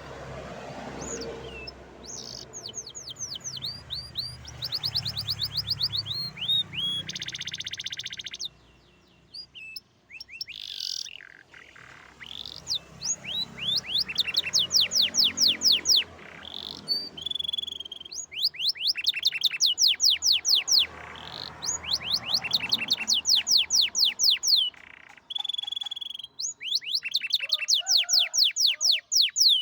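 Canary singing: long, fast trills of repeated downward-sweeping notes in phrases a few seconds long, broken by short pauses, with a buzzy held note about eight seconds in.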